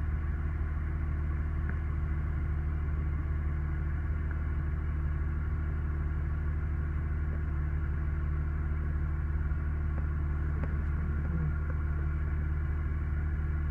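A vehicle engine idling: a steady low hum that does not change.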